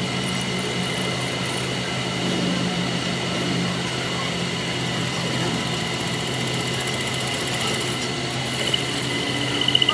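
A workshop machine running steadily, with a low hum and a thin high whine that hold even throughout.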